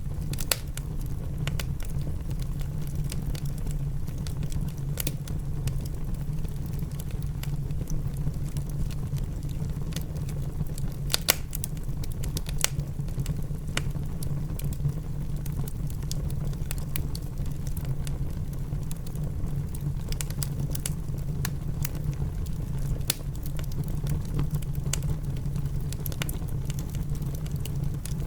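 Wood fire in a fireplace crackling, with scattered sharp pops, over a steady low rumble of rain.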